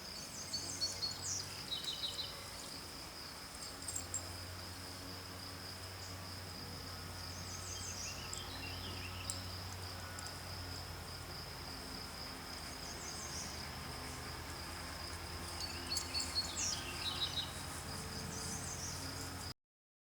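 Crickets or similar insects trilling steadily on one high note, with clusters of short, higher chirps breaking in three times. The sound cuts off suddenly just before the end.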